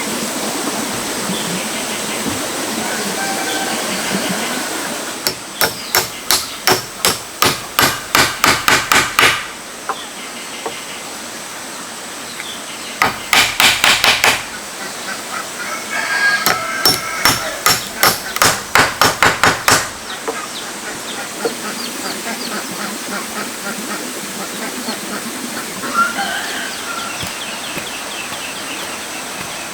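Hammer driving nails into wood in three runs of quick, even blows, roughly three a second, each run getting louder. Chickens cluck faintly between the runs.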